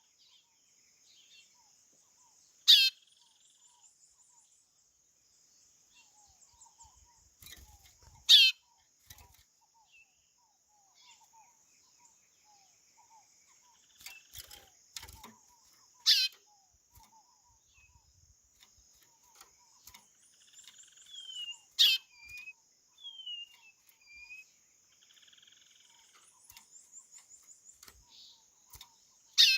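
White-bellied seedeater (chorão) calling: five short, sharp, falling high notes spaced several seconds apart, with softer chirps and slurred whistles between them. A faint steady high tone runs underneath.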